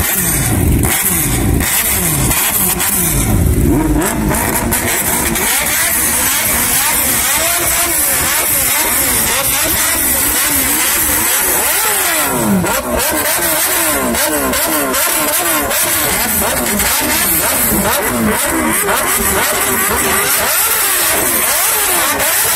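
Superbike engines, among them a Kawasaki Ninja, revved hard while standing: loud, repeated throttle blips, each one rising and dropping in pitch. Several blips overlap at times.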